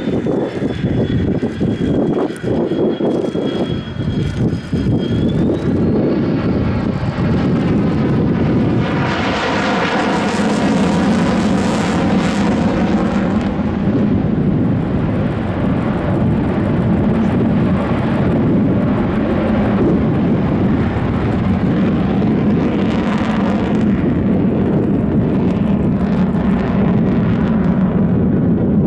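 Fixed-wing aircraft engine noise as a plane flies past, with a sweeping whoosh that peaks about ten seconds in and settles into a steady drone.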